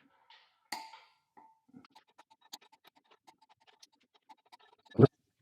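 Hand tools working the flywheel bolts during torquing: a sharp click, then a run of faint, quick ticks, and a loud knock near the end.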